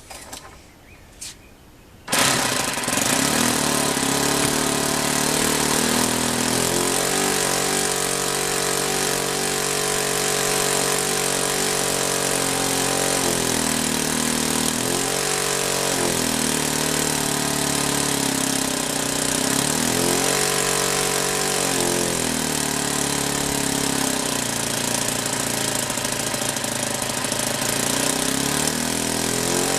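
OS FS40 four-stroke model aircraft glow engine firing up about two seconds in after a few light clicks, then running steadily with its speed dipping and picking up again several times. It runs on a home-made replacement piston ring with no power on the glow plug, though not yet fully smooth, as its builder judges.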